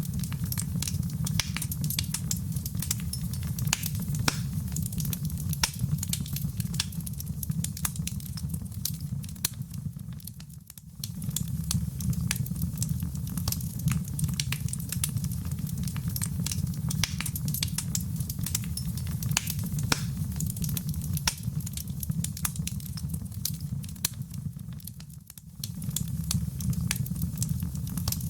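Wood fire in a fireplace burning with a steady low rumble and frequent small crackles and pops. The sound dips briefly twice.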